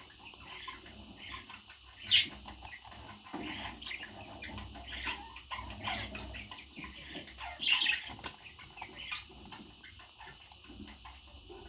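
Pet parrot chirping and squawking in short, scattered calls, with two louder squawks about two seconds in and near eight seconds.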